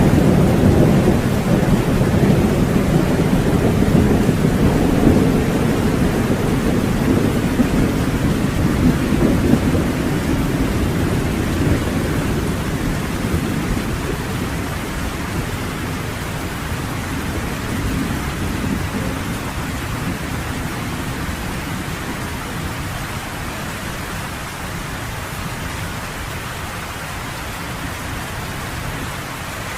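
Steady rain pelting down on a cabin porch, under a long rolling rumble of thunder that slowly fades away over the first half, leaving the even hiss of the rain.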